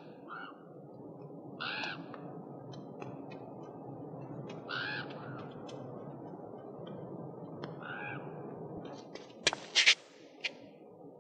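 A bird caws three times, a few seconds apart, over a steady outdoor background hum. Near the end come a few sharp footsteps of hard-soled boots on paving slabs.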